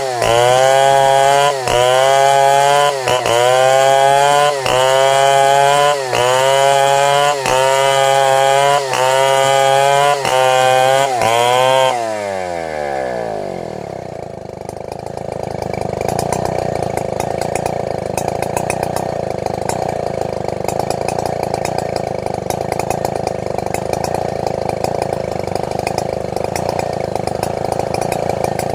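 Chainsaw engine running at full throttle, its pitch dipping briefly about every one and a half seconds. About twelve seconds in, the throttle is released and the engine winds down, then idles steadily.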